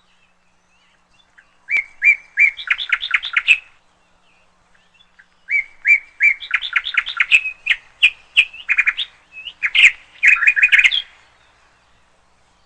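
Canary singing in two bursts of rapid repeated chirping notes, a short phrase followed after a pause of about two seconds by a longer one.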